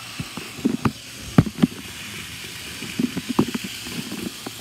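N scale model train, a vintage Bachmann GP40 diesel pulling a string of freight and passenger cars, running around the track at full speed: a steady faint hum under irregular clusters of sharp clicks and clacks from the wheels on the rails.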